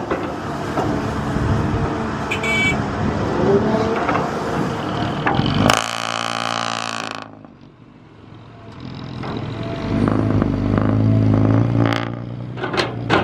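Engines of heavy construction machinery running under load. The sound changes abruptly about six seconds in, drops away briefly, then an engine with a deep steady hum builds up again, with a few sharp knocks near the end.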